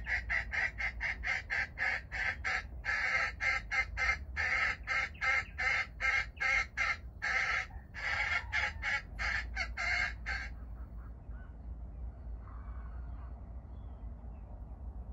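A bird calling a long run of rapid, harsh, rasping notes, about five a second in short bursts, that stops about ten seconds in.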